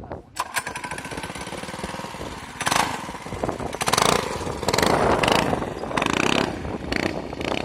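Small single-cylinder off-road engine running under a rider, the revs rising and falling, with swells of louder throttle about three, four and five seconds in.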